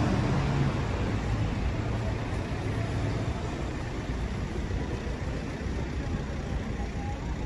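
A motor vehicle's engine running in the street with a low rumble, easing slightly over a few seconds.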